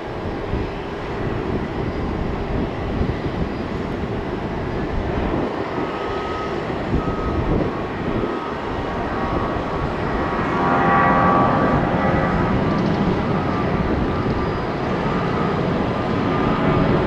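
Jet aircraft engines running: a steady rushing noise with a whining tone of several pitches that swells to its strongest about two-thirds of the way through, then fades.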